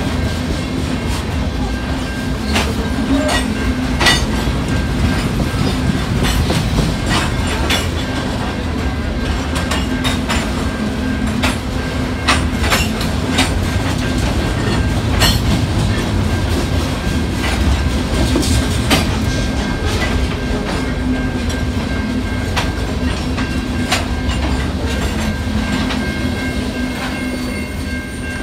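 Freight train rolling past: a steady low rumble of railcars with irregular clicks and clacks of wheels over rail joints, dying away slightly at the very end.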